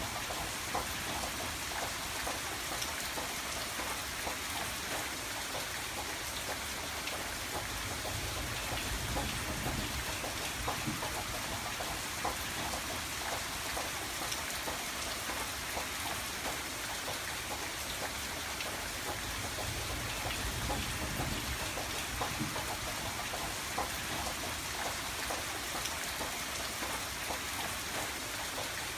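Steady rain falling on a window pane: an even hiss with many small, sharp drop clicks. A soft low rumble underneath swells and fades a couple of times.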